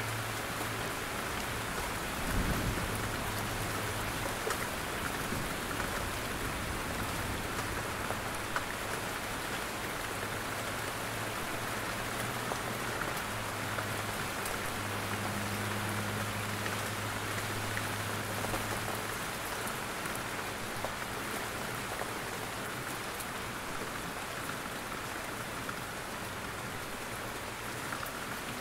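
Steady rain in a forest, with drops falling from the trees and ticking in scattered hits. A low rumble comes and goes underneath, with a single thud about two seconds in.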